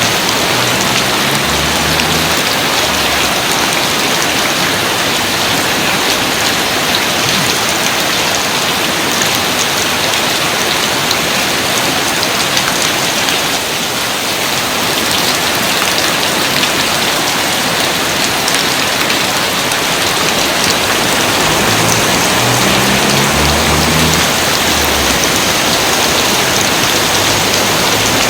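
Steady, heavy rain pouring down, a dense even hiss of countless drops with no let-up.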